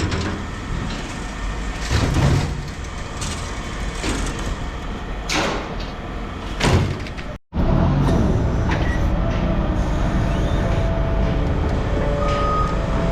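Scrap metal clanking and rattling with several sharp knocks over a few seconds. After an abrupt cut, a vehicle engine runs steadily.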